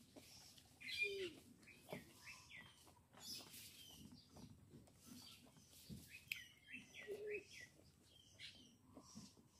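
Faint chirping of small birds: clusters of short, quick chirps, repeated several times, with a few soft clicks in between.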